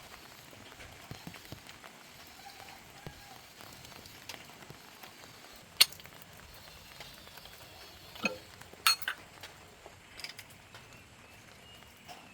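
Sparse sharp clicks and clinks over a faint steady hiss: one loud click about six seconds in, then a few more close together around eight to nine seconds.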